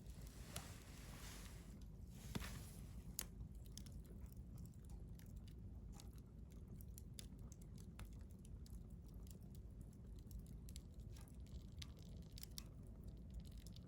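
Wood fire crackling faintly, with scattered small ticks and pops and a couple of louder snaps in the first few seconds, over a soft hiss that fades after about two seconds.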